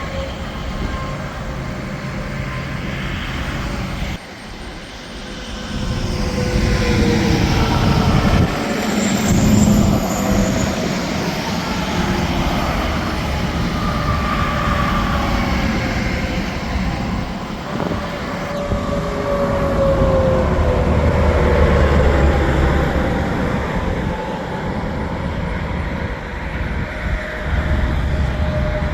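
Interstate highway traffic with semi-trucks passing one after another. Engine and tyre noise swells and then falls in pitch as each truck goes by, loudest about a third of the way in and again a little past the middle.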